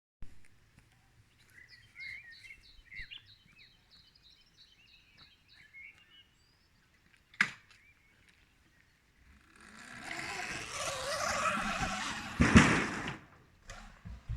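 A bird singing a quick run of repeated high notes with chirps for the first half, then a single sharp click. After that a Sur-Ron electric motorbike passes, its motor and tyre noise swelling to a loud peak and falling away.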